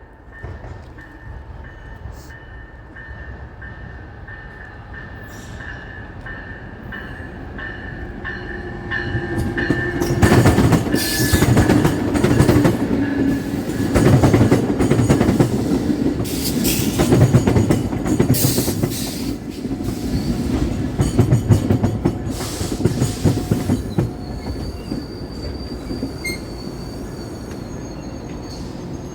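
A train approaches and passes close by, its wheels clattering rhythmically over the rail joints. The clatter swells to its loudest in the middle and eases off near the end, when a thin wheel squeal rises.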